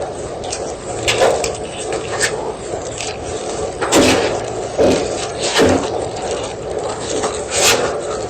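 Block of gym chalk crunching and crumbling in short, irregular crunches, about six, the loudest about four seconds in.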